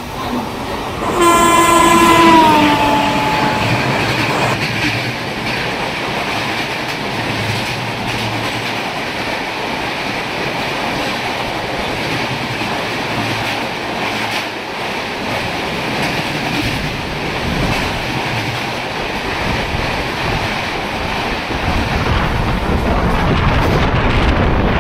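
Indian Railways express train passing at speed: the locomotive's horn sounds about a second in, one note that drops in pitch as it goes by, then the coaches run through with a steady rumble and clatter of wheels on the rails.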